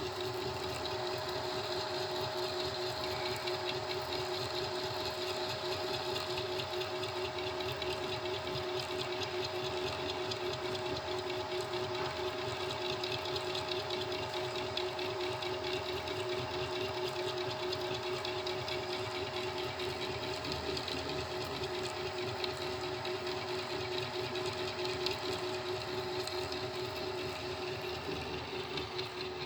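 Home-built CNC milling machine running as a compression wood end mill cuts MDF: a steady whine of the spindle over a rapid, even rattle.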